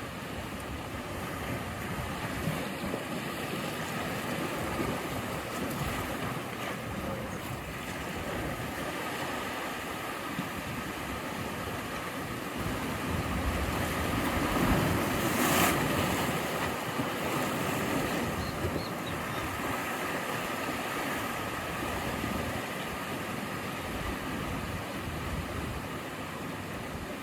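Ocean surf: a steady wash of waves breaking on the shore, swelling as one larger wave builds and crashes about halfway through, then settling back.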